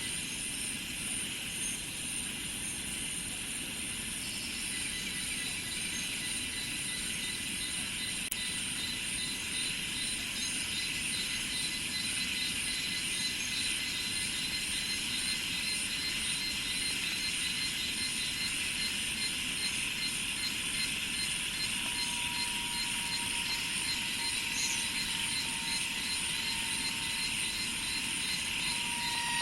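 Dense chorus of insects, cicadas and crickets, with several steady, rapidly pulsing trills layered at different pitches. A lower steady trill joins about twenty seconds in.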